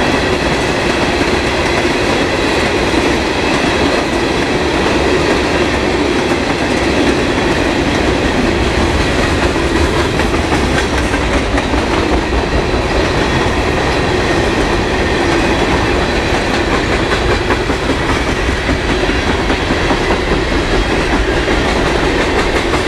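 Freight cars of a CSX mixed freight train rolling past: a steady, loud rumble of wheels on rail with continuous clickety-clack over the rail joints, plus a thin steady high whine.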